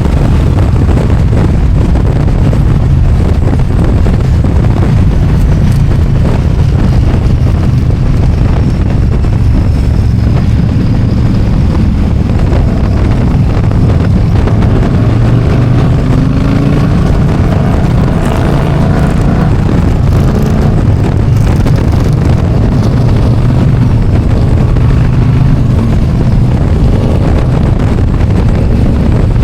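Motorcycle riding at speed: a steady engine rumble under heavy wind rushing over the microphone, with the engine note rising and shifting in pitch around the middle.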